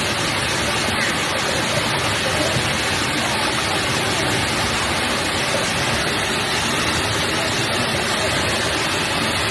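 Steady rush of falling water from a waterfall, an even unbroken roar.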